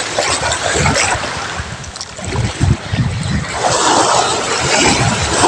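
Waves washing on the shore and wind gusting against the microphone, with an irregular low rumble.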